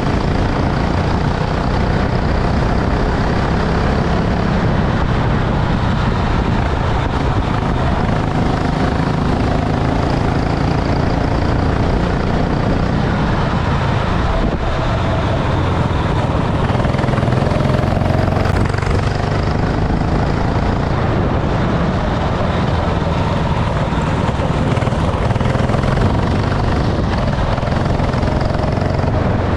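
Racing kart engine running continuously at speed, its pitch rising and falling slightly as it revs.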